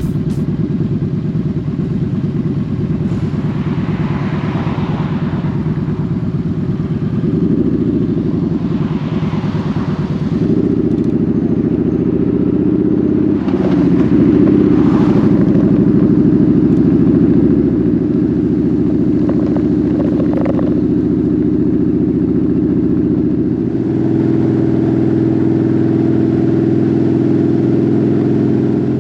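Motorcycle engine running steadily at road speed, its pitch stepping to a new level a few times as speed or gear changes, with a few brief swells of hiss over it.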